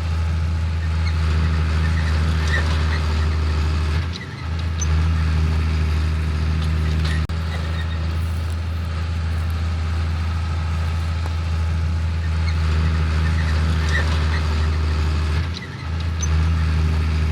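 Large farm machinery engine running steadily with a deep, even hum, easing off briefly about four seconds in and again near the end; the same stretch of sound repeats about eleven seconds apart.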